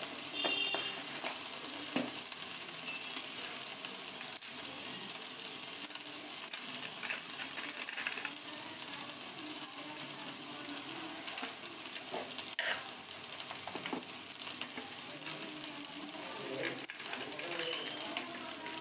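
Spice masala sizzling steadily in hot oil in a kadai, with a few faint clicks of the spatula against the pan.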